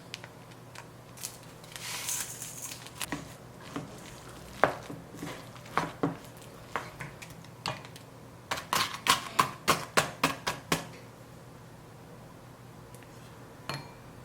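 Kitchen utensils knocking and clinking on dishes and a work surface, with a short scrape early on. About halfway through comes a quick, even run of about ten taps.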